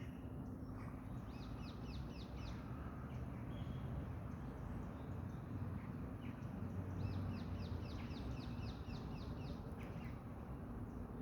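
A small songbird singing two phrases of quick, high, repeated notes, a short phrase about a second in and a longer one of about a dozen notes near the end, over a steady low background rumble.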